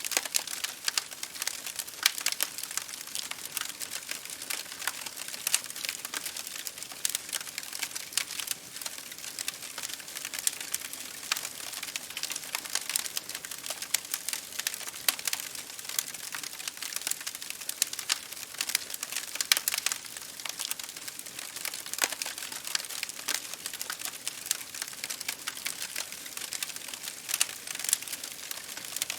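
Wood fire burning: a steady hiss with many irregular sharp crackles and pops.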